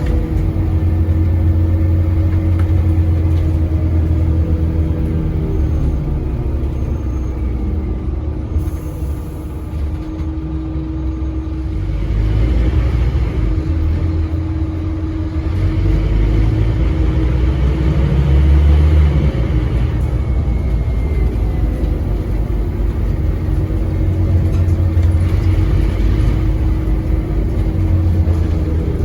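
Scania N230UD double-decker bus's five-cylinder diesel and ZF Ecomat automatic gearbox pulling hard under full throttle. A deep engine drone rises in pitch through long-held gears over a steady whine, and is loudest about two-thirds of the way in.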